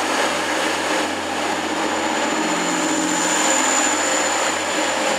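TransPennine Express diesel multiple unit pulling slowly out of the platform, its engines running under power with a steady whir and a thin high whistle that grows a little stronger partway through.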